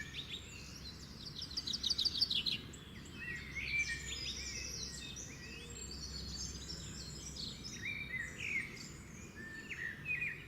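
Several songbirds singing at once, a dense run of overlapping chirps, trills and warbled phrases, over a faint steady low rumble.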